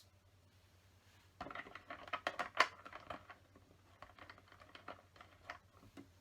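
LEGO plastic pieces clicking and rattling as they are handled and pressed together. A quick flurry of small clicks starts about a second and a half in and lasts about two seconds, followed by scattered single clicks.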